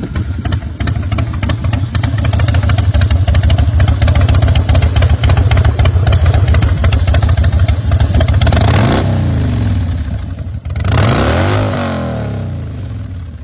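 Harley-Davidson Road King Custom's twin-cam V-twin running with a steady pulsing exhaust beat, easing off about nine seconds in, then revved once, rising and falling, and settling back near the end.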